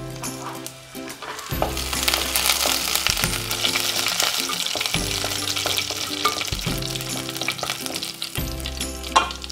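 Sliced shallots and curry leaves sizzling in hot oil in a clay pot, stirred with a wooden spatula. The sizzle swells louder about a second and a half in and holds steady.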